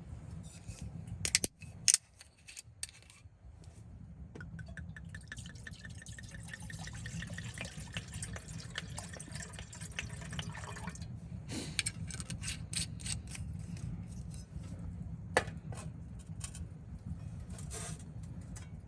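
Liquid poured into a container for about six seconds, its pitch slowly rising as the container fills, with a few clinks and knocks before and after.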